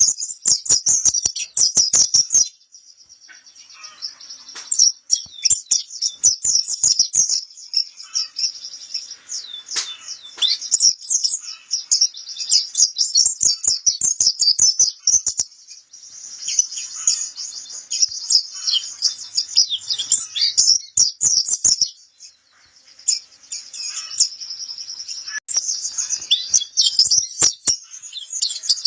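White-eye (pleci kapur) singing a rapid, high twittering song in long runs. The song pauses briefly about three seconds in and again about twenty-two seconds in.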